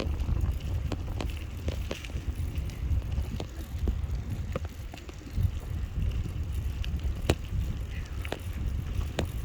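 Schwinn Radiant bicycle ridden on pavement: a steady low rumble of wind on the microphone and tyres, with scattered sharp clicks and ticks.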